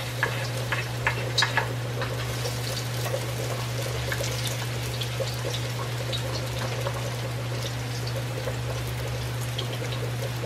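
Chopped garlic sizzling in hot oil in a wok, a steady hiss full of small crackles and pops, with a few sharper clicks in the first two seconds. A steady low hum runs underneath.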